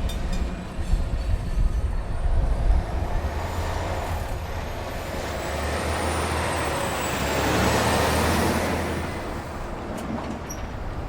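Low rumble of a heavy vehicle passing, its noise swelling to a peak about eight seconds in and then fading.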